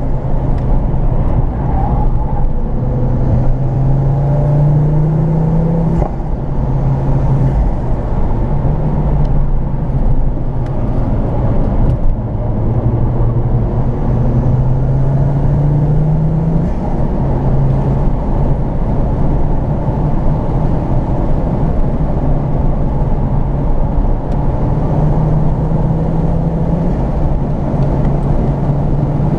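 Ford Focus RS Mk2's turbocharged five-cylinder engine heard from inside the cabin, pulling up through the gears with the revs held moderate. Its pitch climbs and drops back at each upshift, several times, over steady road and wind noise.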